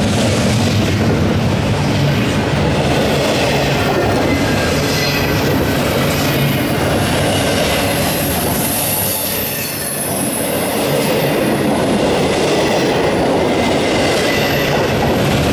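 Double-stack intermodal well cars rolling past close by: a loud, steady rumble of steel wheels on rail, with a thin, high wheel squeal above it.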